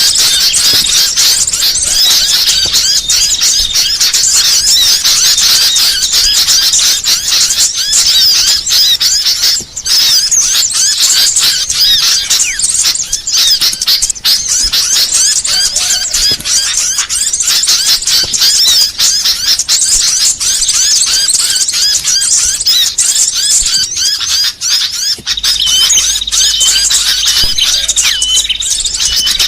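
Dense, unbroken chirping and twittering of many small songbirds layered together: a mixed small-bird ('burcil') song recording used as a lure and for tutoring caged songbirds. About 25 s in, a short high note repeating a few times a second joins the mix.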